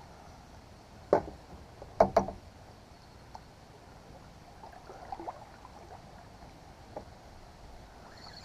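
A few sharp knocks against a kayak hull: one about a second in, a louder double knock around two seconds, then fainter clunks near five and seven seconds.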